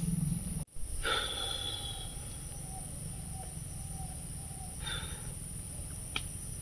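Forest ambience: a steady high-pitched insect drone, with two short bird calls about a second in and again about five seconds in.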